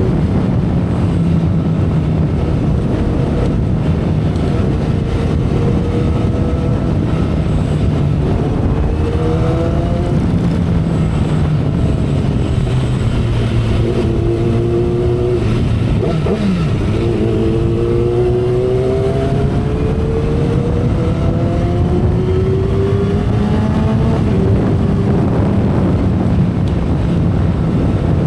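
2012 Kawasaki Ninja ZX-10R's inline-four engine under way, its pitch climbing several times and stepping back down between climbs, as when pulling through the gears, over a steady rush of wind and road noise.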